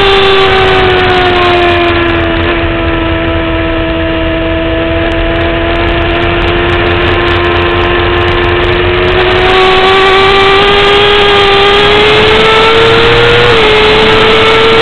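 2009 Kawasaki ZX-6R inline-four sport-bike engine at track speed, with heavy wind rush. The engine note eases off and holds lower for several seconds, then rises again as the throttle opens about ten seconds in, with a brief step down near the end like a gear change.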